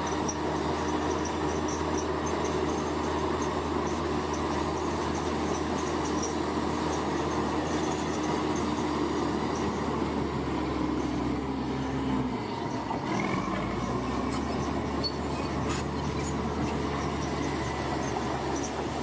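Bulldozer's diesel engine running steadily with a low drone. About twelve seconds in its pitch drops and comes back up as the engine takes load.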